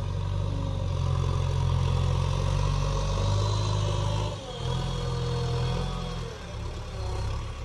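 Heavy diesel engine of earth-moving machinery running steadily, dipping briefly about four and a half seconds in before picking up again.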